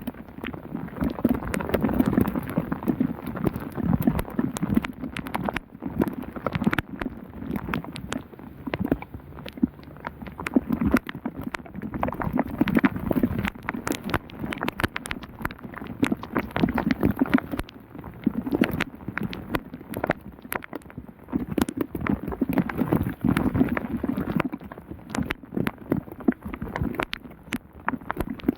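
Heavy rain pouring down, with drops striking close to the microphone as a dense, irregular patter of clicks, swelling and easing every few seconds.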